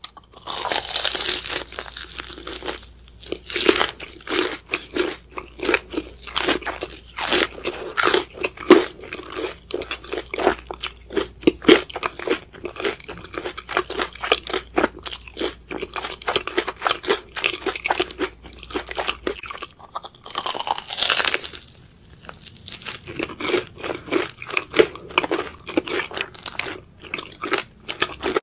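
Close-miked crunching and chewing as bites are taken from deep-fried Korean corn dogs with a crisp crumb and potato-cube coating, a rapid, irregular run of crisp crackles throughout.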